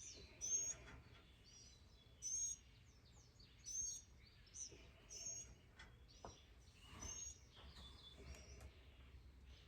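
A small bird chirping faintly, short high chirps repeated about every one and a half to two seconds, with a few faint clicks in between.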